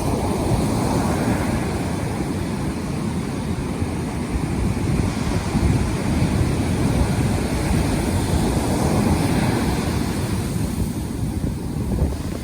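Heavy surf from a post-typhoon swell breaking and washing continuously on the shore, with wind buffeting the microphone.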